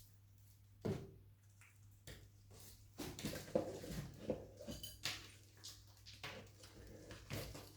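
Faint rustling and light clicks of hands working an orchid's roots and old coir-and-bark potting mix, sparse at first and busier from about three seconds in, over a low steady hum.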